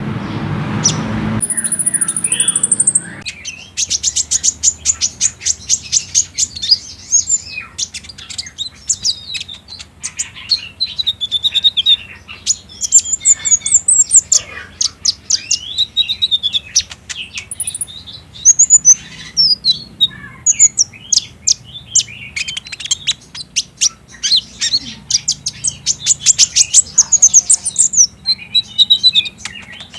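Van Hasselt's sunbird (kolibri ninja) singing: a fast, high trilling song of rapid ticking notes run together with chirps and short twitters, repeated with brief gaps. It opens with a short burst of noise and a thin high whistle before the trills begin.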